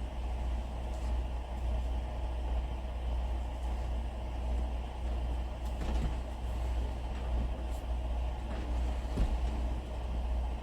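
Steady low mechanical rumble, with a few faint knocks.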